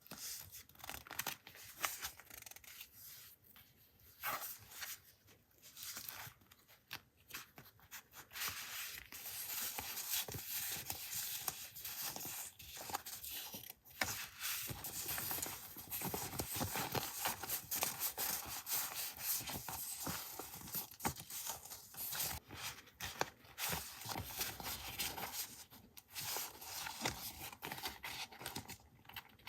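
Close-up paper handling: scratchy rustling and rubbing of paper, with short clicks and rustles at the start and end and a longer continuous stretch through the middle.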